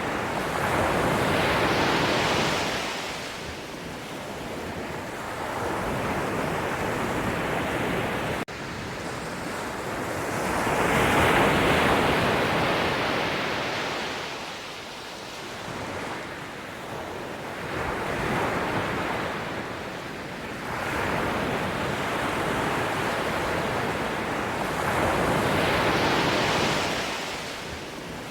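Sea waves breaking and washing on a shore, the surf rising and falling in long surges about every seven seconds, with some wind on the microphone. The sound breaks off abruptly for an instant about a third of the way in.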